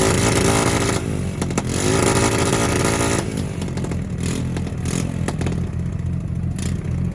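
A car engine held on a two-step launch limiter, revved hard twice with the pitch swooping down and back up, then dropping to a lower run punctuated by sharp exhaust pops and crackles.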